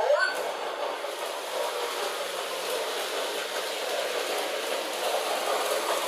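New Bright Holiday Express G-scale electric toy train running around its oval track, its motor and wheels making a steady whirring rumble.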